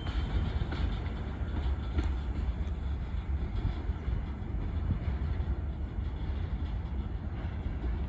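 Steady low rumble of a freight train on the rails, with one sharp click about two seconds in.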